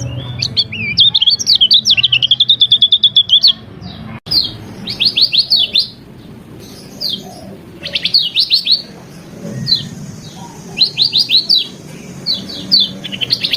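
Lemon-bellied white-eye (kecial kuning) singing a varied song: a long, fast chattering trill for the first three seconds or so, then short bursts of four to six quick sweeping high notes with pauses between them.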